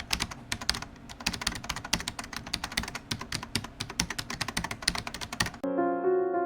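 Rapid, irregular typing clicks, several a second. They stop a little before the end, when soft piano music begins.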